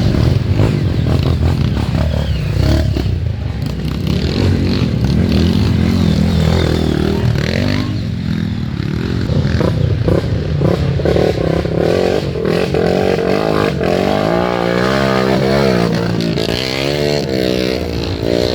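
Off-road motorcycle engines running and revving, their pitch rising and falling again and again, most strongly in the last few seconds.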